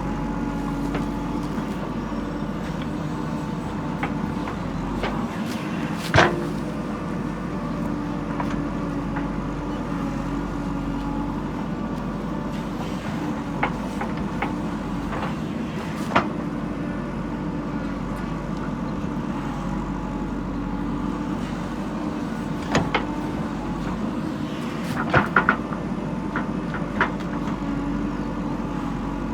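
Diesel engine of a JCB backhoe loader running steadily at work, with occasional sharp metallic knocks, the loudest about six seconds in and a quick run of three near the end.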